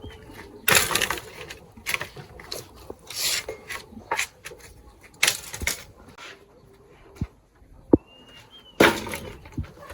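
Irregular scraping and rubbing with a few sharp knocks, typical of handling wooden and kitchen items during food preparation. A short rising chirp sounds near the end.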